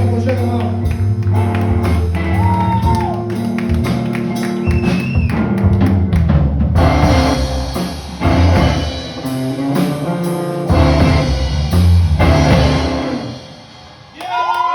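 Live band music with drum kit and guitar, no singing. It drops away about a second before the end.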